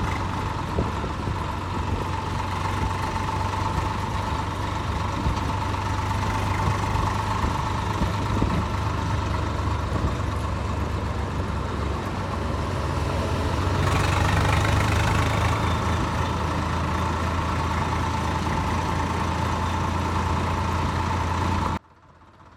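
An engine running steadily, getting louder for a couple of seconds about two-thirds through, then cutting off suddenly near the end.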